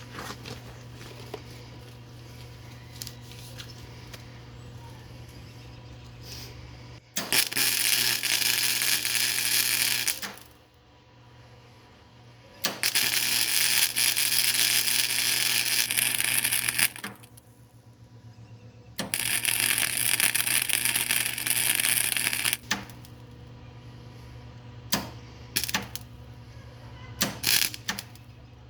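Flux-core MIG welder arcing on painted steel pipe: three runs of a few seconds each of dense, steady crackling sizzle, then several short bursts near the end, over a low steady hum.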